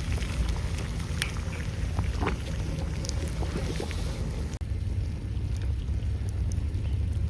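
Low wind rumble on the microphone over a campfire crackling with scattered sharp pops. The sound changes abruptly a little past halfway, as at an edit.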